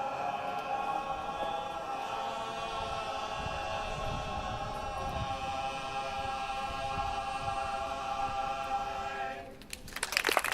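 All-male a cappella barbershop chorus holding the long final chord of a song, which cuts off near the end. Audience applause and clapping break out right after.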